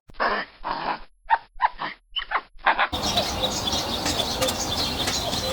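A dog giving a run of about six short whining barks in quick succession. After about three seconds it cuts abruptly to a steady outdoor hiss with high chirps.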